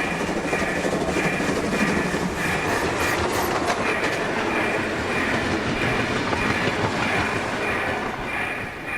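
Train passing through without stopping, a steady rumble with wheels clattering over the rail joints.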